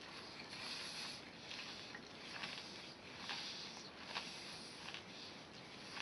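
Faint chewing of Nerds, tiny crunchy candies, with a few soft crunches heard over a steady background hiss.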